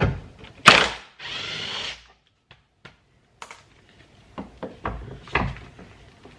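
A power tool runs briefly, undoing one of the 16 mm bolts under a VW R32's rear trailing arm. Around it come sharp metallic knocks and clicks of tools on the suspension, the loudest just under a second in and again about five seconds in.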